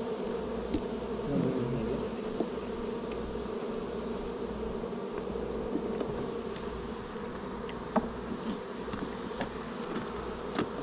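Honeybees buzzing in a steady hum around an open hive being worked frame by frame, with a few short sharp clicks, the clearest about eight seconds in and near the end.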